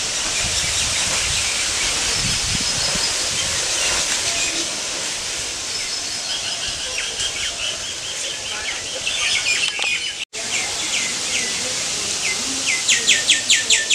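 Outdoor ambience of birds chirping over a steady high hiss, broken by a momentary dropout about ten seconds in. Near the end a bird calls loudly with a rapid series of sharp, falling chirps, about five a second.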